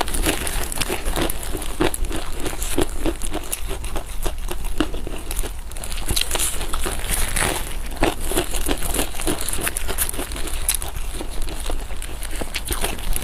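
Close-miked eating of Chinese food: steady chewing at about two chews a second, with many small wet clicks and crackles from the mouth and food.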